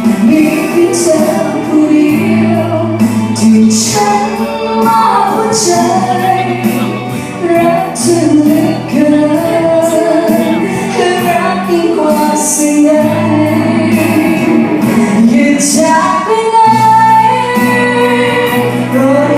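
A woman singing a Thai pop ballad over a band backing with bass and a steady cymbal beat.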